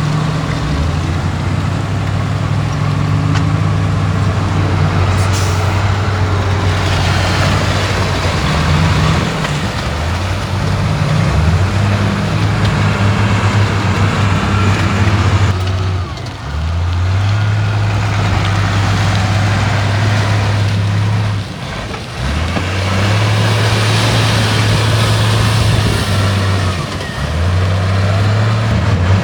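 Heavy diesel earthmoving machine working under load: a steady low engine drone that dips briefly three times, in the middle, about two-thirds through and near the end, over a constant noisy mechanical hiss and rattle.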